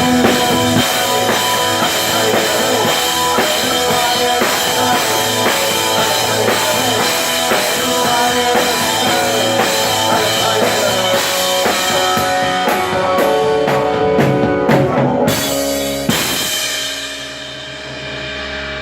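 Rock band playing with a drum kit and guitar; about 16 seconds in the song closes on a final hit and the last chord rings out more quietly.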